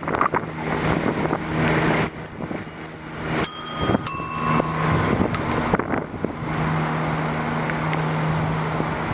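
A bicycle bell rung in a quick run of dings about two seconds in, then struck twice more with ringing decays, over steady wind and road noise from riding. A steady low hum comes in later.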